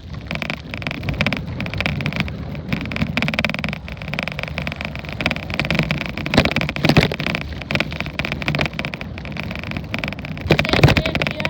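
Bicycle ride heard through a tablet taped to the handlebars: continuous rolling and rattling noise with frequent knocks, and louder jolts about halfway through and near the end.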